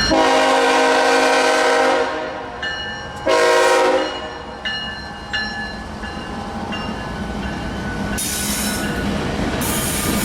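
Diesel freight locomotive's air horn: one long blast, then a short one about three seconds in. Thin high wheel squeals follow, and near the end a rising rush of noise as the train rolls by.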